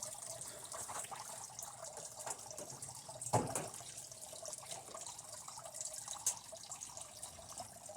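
Faint clicks and light knocks of TV parts being handled and taken apart, over a steady background hiss, with one sharper knock about three and a half seconds in.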